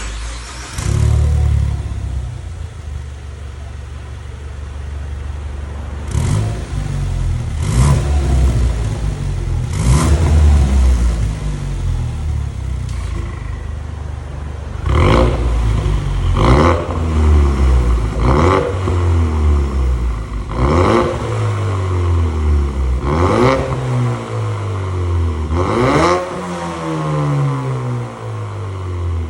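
Ford Mustang 2.3 EcoBoost's turbocharged four-cylinder engine through an aftermarket Maintec electronic valved exhaust, idling and revved in about nine sharp blips that rise and fall quickly, coming closer together in the second half.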